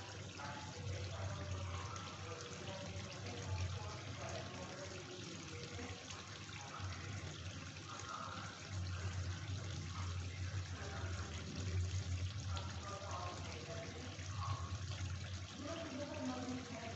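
Chicken curry sizzling and bubbling in oil in a steel kadhai over a gas flame, a steady crackly sputter over a low hum.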